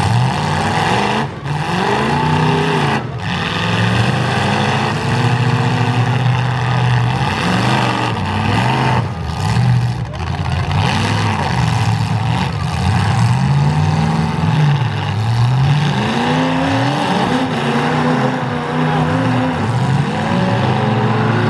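Engines of modified full-size demolition derby cars revving hard, their pitch climbing and falling again and again as the cars push against each other and spin their wheels in the dirt.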